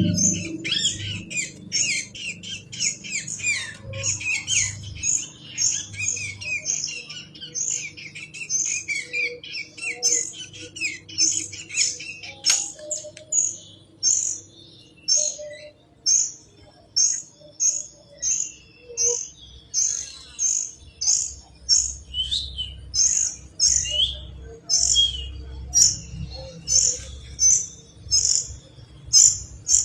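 Kapas tembak bird chirping in quick, repeated short high notes, at first a busy jumble and later a steadier series of about two chirps a second, over a faint steady low hum.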